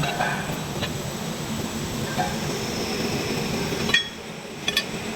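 Steady mechanical running noise, with light metal clinks scattered through it; the running noise drops off about four seconds in, followed by a few quick clinks.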